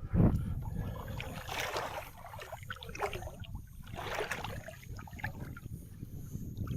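Water swishing and splashing around a small boat in shallow water, a few swishes two to three seconds apart, after a sharp knock at the start.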